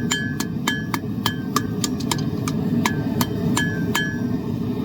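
Hand hammer striking hot steel on an anvil about three times a second, each blow with a short metallic ring, shaping the bowl of a forged spoon; the blows stop about four seconds in. Under them runs a steady roar from a propane forge burner.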